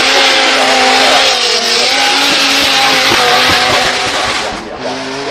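Drift car sliding with its engine held at high revs, the pitch wavering, over a loud hiss of spinning tyres. The sound dips about four and a half seconds in, then a lower engine note comes up.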